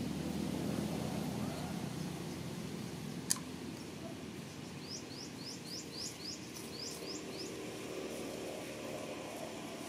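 Steady outdoor background noise, with a small bird giving a quick run of about nine high, downward-sweeping chirps starting about five seconds in. A single sharp click sounds a little after three seconds.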